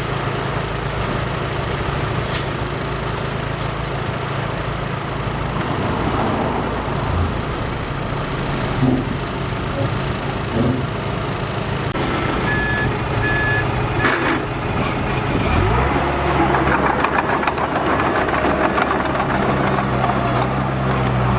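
Diesel engine of heavy earthmoving machinery running steadily under load, with scattered knocks and clanks. A few short high beeps come about halfway through. Near the end the engine note rises and runs louder.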